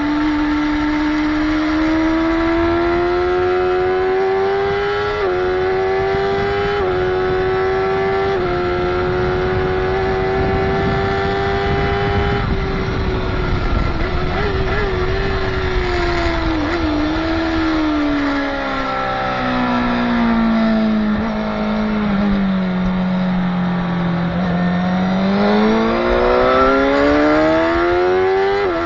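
Motorcycle engine at full track pace: it revs up with quick upshifts a few seconds in and holds high revs. Through the middle the revs wind down as the bike slows for a corner, then rise steeply again near the end as it accelerates out. Wind and road rush run underneath.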